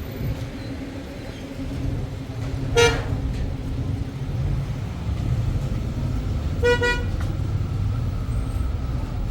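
City traffic rumbling steadily, with two short car-horn honks, one about three seconds in and another about seven seconds in.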